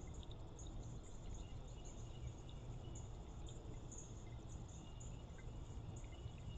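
Faint outdoor ambience: a steady low rumble and water noise, with scattered short, high chirps throughout.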